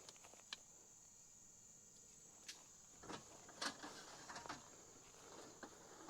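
Near silence: a steady high-pitched insect drone, crickets, with a few faint knocks and rustles.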